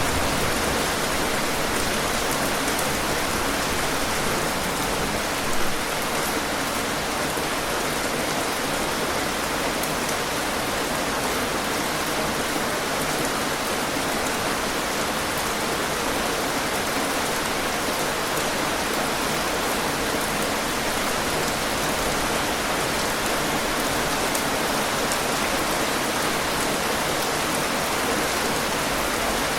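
Steady rain falling, an even hiss of drops with fine pattering ticks. A single slightly louder drop or splash stands out about five and a half seconds in.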